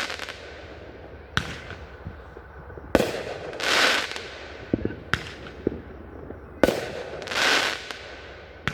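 Fireworks going off: about seven sharp bangs at irregular intervals, with a longer rushing hiss swelling up shortly after two of the loudest.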